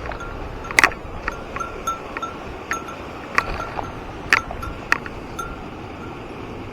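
A small metal bell jingling irregularly, about a dozen short rings at uneven intervals, over a steady rushing background.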